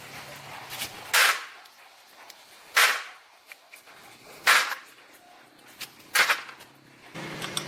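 Four sharp impact strikes, evenly spaced about a second and a half apart, each ringing briefly.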